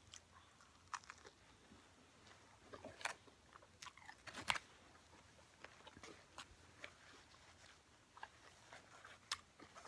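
Fried egg roll being bitten and chewed, with scattered crisp crunches of the fried wrapper, the loudest about four and a half seconds in.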